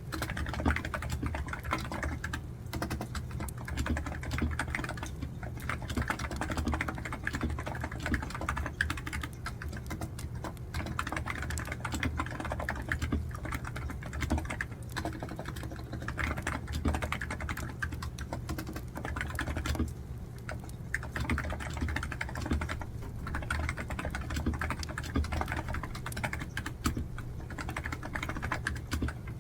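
Steady fast typing on a computer keyboard, keys clicking in quick runs with a few brief pauses, over the low crackle and rumble of a burning wood fire.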